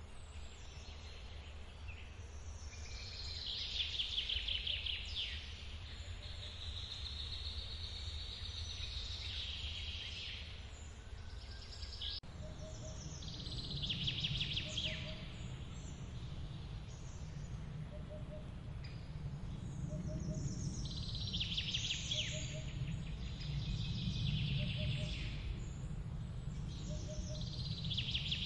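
Songbirds singing short descending trilled phrases every few seconds over the steady low rush of a forest waterfall. About twelve seconds in, the rushing changes abruptly, and a faint short note repeats about every second and a half from then on.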